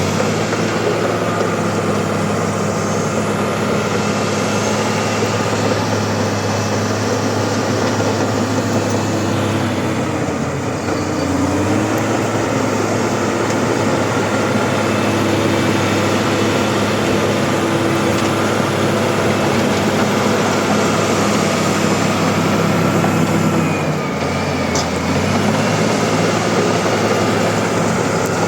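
Bulldozer's diesel engine running steadily, its pitch shifting briefly twice as the load changes.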